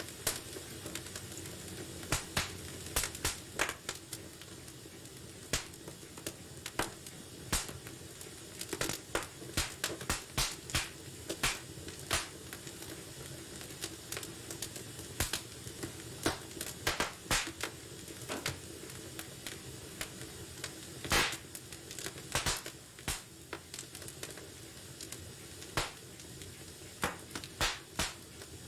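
Wood fire burning in a fireplace, crackling with sharp irregular pops over a steady soft hiss; one louder pop comes about 21 seconds in.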